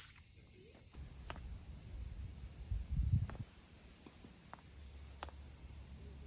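Steady high-pitched insect chirring, with a few faint sharp ticks scattered through it and a low rumble swelling briefly near the middle.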